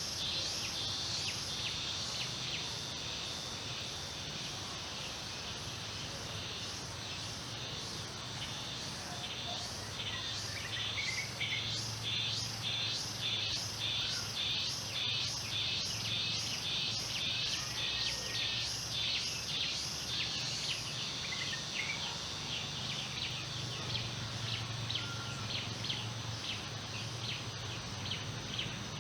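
Insects chirping in a steady, evenly pulsed rhythm, with a few faint bird chirps and a low steady background hum underneath.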